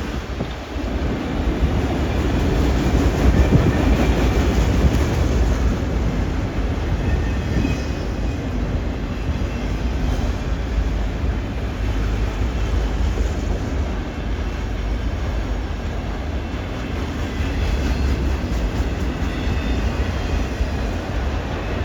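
CN freight train rolling past at close range: a steady, loud rumble of steel wheels on the rails.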